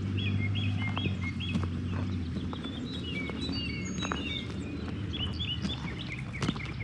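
Songbirds chirping over and over in quick short calls. A low steady hum underneath fades out about two and a half seconds in, with a few faint ticks.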